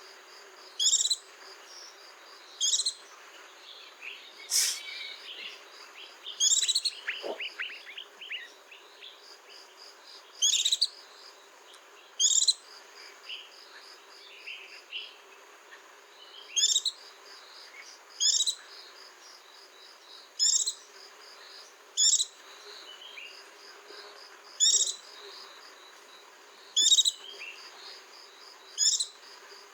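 White-eye chirping: short, high, upward-sweeping notes repeated every second or two, with a longer jumble of falling notes about four to eight seconds in. A steady high pulsing trill runs underneath.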